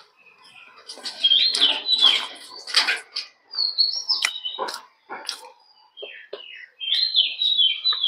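A bird singing repeated short phrases of quick falling whistled notes, the loudest sound, with short wet chewing and mouth clicks close to the microphone between the phrases.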